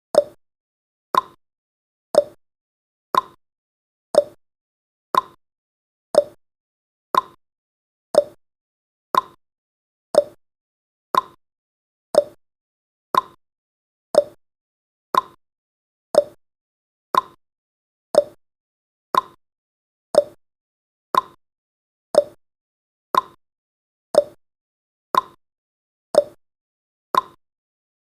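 Clock ticking sound effect of a countdown timer: one sharp tick each second, alternating between a lower and a higher pitch in a tick-tock pattern.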